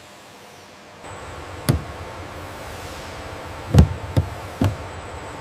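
Four dull knocks at uneven spacing over a steady background hum that comes in about a second in.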